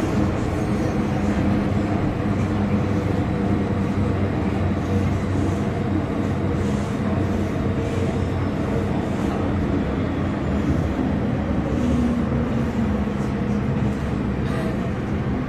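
MTR M-Train electric multiple unit running along the track: a steady rumble of wheels on rail mixed with a constant hum from the train's equipment.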